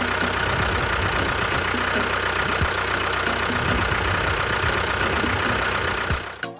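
Tractor engine running steadily with a throbbing, knocking low end, then cutting off abruptly near the end.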